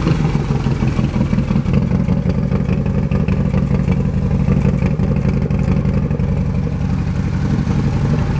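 Harley-Davidson Road Glide V-twin engine running steadily at idle through an aftermarket 2-into-1 exhaust, with a deep, even, rapid pulse.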